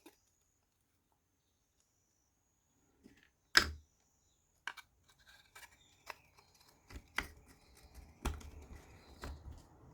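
Laser-cut wooden puzzle-box pieces being handled and fitted together: after about three seconds of near silence, one sharp knock, then scattered lighter clicks and taps of wood on wood.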